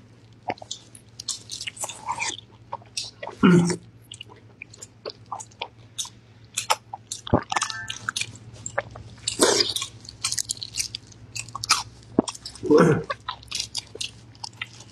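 Close-miked wet chewing and biting of a soft, sauce-soaked stuffed sausage (Henan guanchang, a casing filled with glass noodles and scallion): a run of short lip smacks and squelches, with a few louder mouthfuls about 3.5, 9.5 and 13 seconds in.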